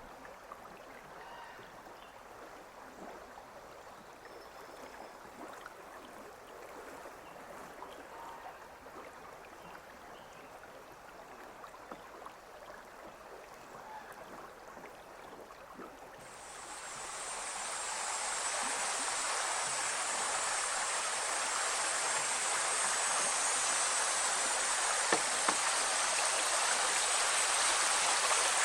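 Pine River water: a soft gurgling flow with small scattered drips and ticks, then about halfway through a much louder, steady rush of water sets in and holds.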